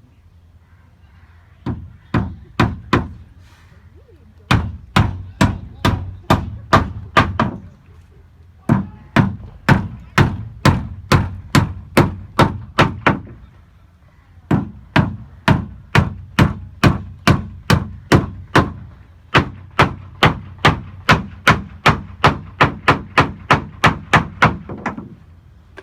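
Hammer blows in boatbuilding, struck steadily at about three a second in several runs of a few seconds each with short pauses between.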